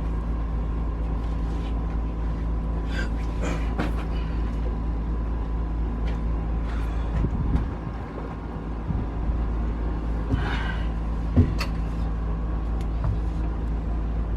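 Steady low mechanical hum with a few light clicks and knocks, one sharper knock near the end, from engine parts being handled.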